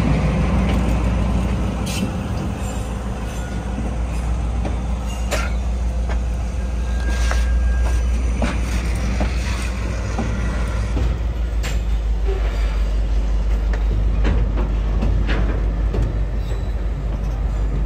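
G22 diesel-electric locomotive running past at close range, then its hopper wagons rolling by: a steady low rumble with scattered clanks and wheel clicks on the rails.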